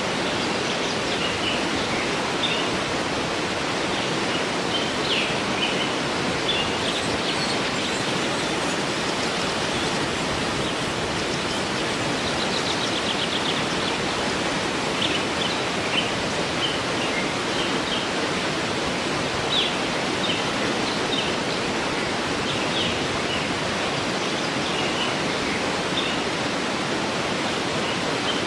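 Waterfall running steadily, with small birds chirping intermittently over it and a brief fast trill about halfway through.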